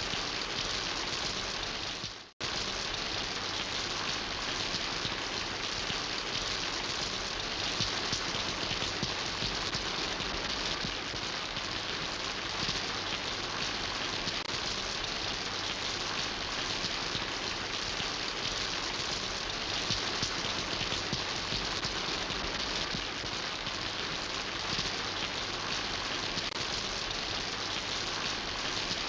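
Steady rain falling, a dense even patter of drops. The sound cuts out for a split second about two seconds in, then resumes unchanged.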